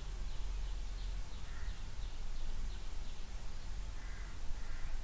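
Birds calling in the background: a quick run of short high chirps, then a few longer, lower calls about a second and a half in and again near the end, over a steady low hum.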